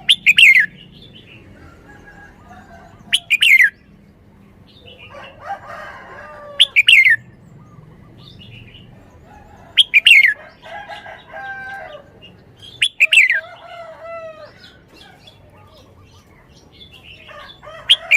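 Red-whiskered bulbul singing: loud short phrases about every three seconds, each starting with a sharp falling note and running into a brief warble.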